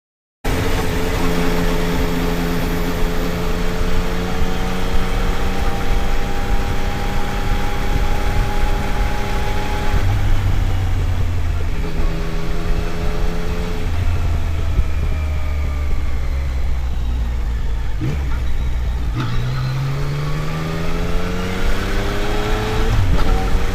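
Yamaha Tracer 900 GT's three-cylinder engine running under way, its pitch rising and then dropping back in steps as the gears change, with a long rising rev near the end.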